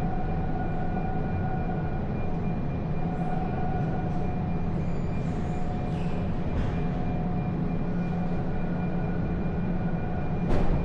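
Car driving: a steady low rumble of road and engine noise with a thin steady whine over it, and a sharp click just before the end.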